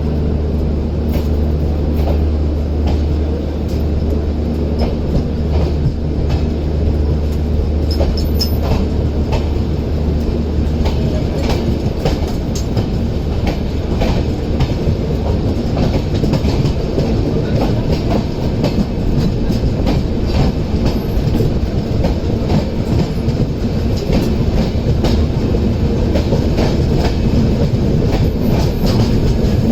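Passenger train running along the track, its wheels clattering over rail joints under a continuous rumble. A steady low hum gives way to a rougher rumble about eleven seconds in.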